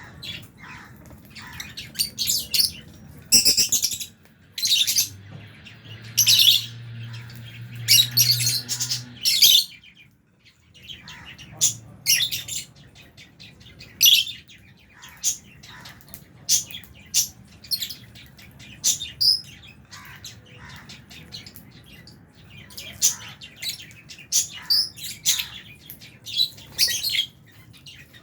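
A flock of lovebirds chirping, with many short, shrill calls overlapping at an irregular pace.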